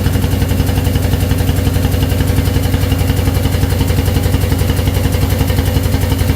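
A machine running steadily, with a deep hum and a fast, even pulse.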